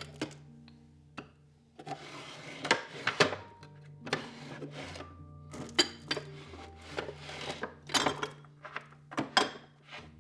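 Soft background music with low held notes, over repeated clicks, knocks and rubbing as objects are handled and moved.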